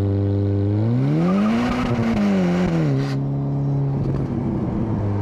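Ferrari Portofino M's 3.9-litre twin-turbo V8 running at a steady pace, then rising in revs about a second in and easing back down over the next two seconds before settling lower. A rushing hiss comes in as the revs climb and stops suddenly about three seconds in.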